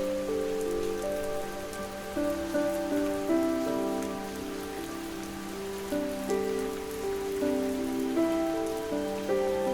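Steady gentle rain mixed with soft, slow sleep music: held notes that change about once a second over a low sustained tone.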